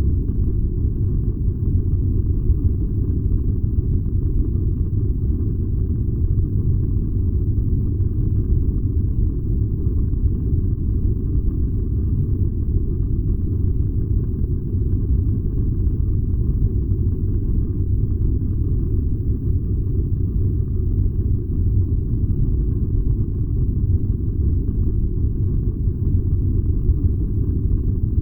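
A furnace running with a steady, low rumble.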